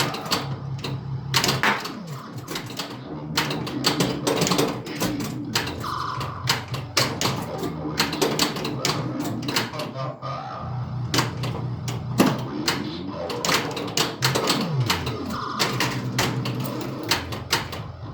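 Bally Centaur pinball machine in play: rapid clacks and knocks of flippers, solenoid coils, bumpers and the ball hitting targets, over the game's electronic sound effects, steady low tones and short beeps.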